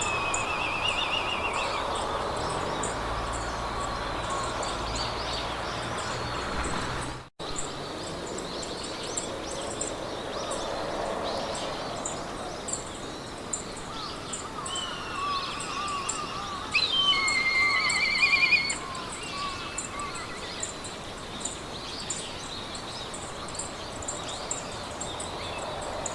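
Meadow ambience: several songbirds chirping and singing over a steady hiss of wind through grass, with an even, fast high ticking throughout. The sound cuts out for an instant about seven seconds in, and the loudest bout of trilled song comes a little past halfway.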